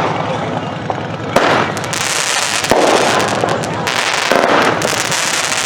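Consumer fireworks going off: two sharp bangs, about a second and a half and nearly three seconds in, and a long spell of dense crackling and hiss.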